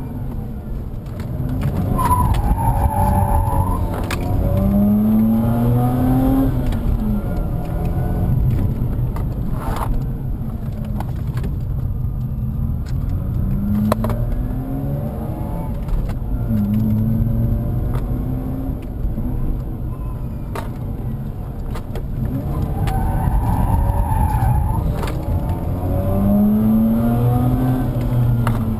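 Mazda RX-8's twin-rotor Wankel engine heard from inside the cabin, revving up hard in repeated rising pulls through the gears. The tyres squeal twice through the bends.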